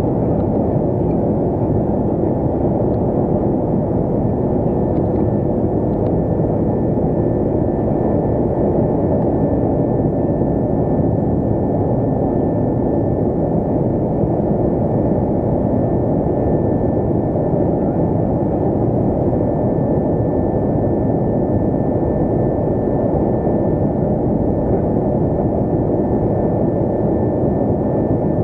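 Steady roar of jet engines and rushing air heard inside the cabin of an Airbus A330-202 in its climb, with a faint steady whine above it.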